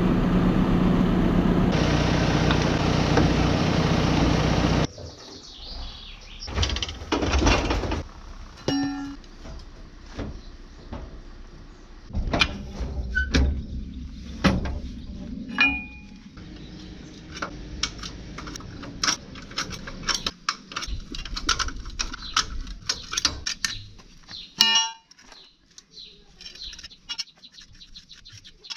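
Steady machine noise, like a running engine, that cuts off suddenly about five seconds in. It gives way to scattered clicks and knocks with a few short bird chirps.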